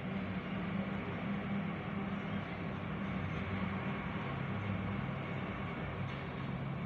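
Steady low mechanical rumble with a droning hum, like motor traffic.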